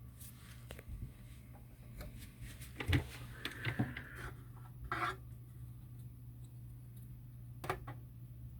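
Sony TC-WR11ES dual cassette deck's tape mechanisms clicking and clunking as they are operated, several separate knocks with the loudest about three seconds in, over a steady low hum.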